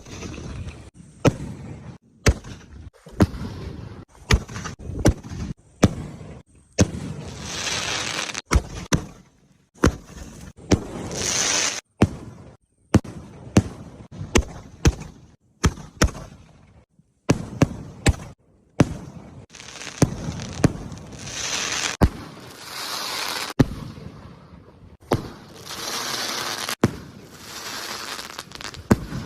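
Diwali firecrackers going off: dozens of sharp bangs at irregular intervals, some in quick clusters, with stretches of hissing and fizzing between them.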